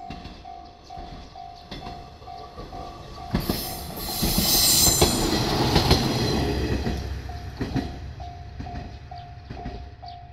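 Japanese level-crossing warning bell beeping about twice a second as a single-car Ibara Railway train passes close by. The train's noise swells to a peak near the middle and drowns the bell for a few seconds, with the wheels clacking over rail joints.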